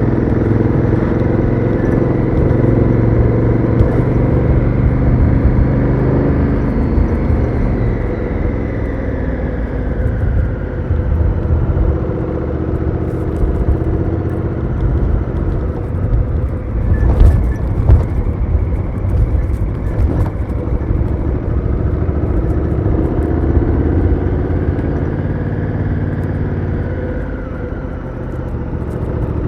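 Honda Africa Twin CRF1000L's parallel-twin engine through its stock exhaust, ridden on the road with the revs falling and rising, over a low wind rumble. A couple of sharp knocks come about halfway through.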